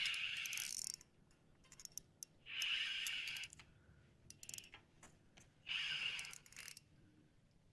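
A spinning fishing reel whirring and clicking in short spells of about a second, four times, a few seconds apart.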